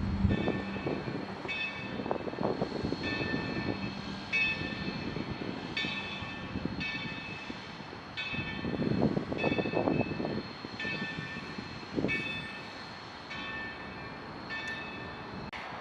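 Steam locomotive bell ringing steadily, one strike about every three-quarters of a second, over the low rumble of the moving train.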